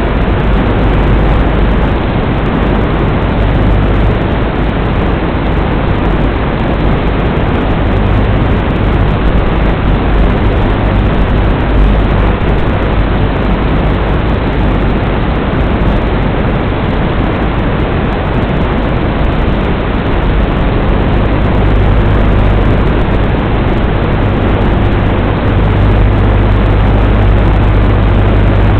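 Steady loud rushing noise with a low rumble, from the onboard camera of a WLToys 12418 RC car as it drives: tyre, drivetrain and wind noise on the small microphone.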